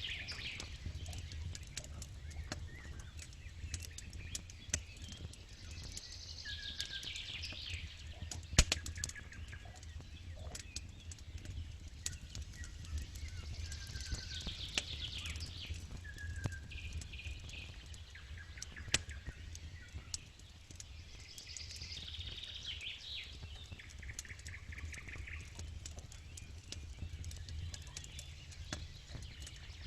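Campfire crackling with scattered sharp pops, the loudest about eight and a half seconds in, over a steady low rumble. A songbird repeats the same short song phrase every seven or eight seconds.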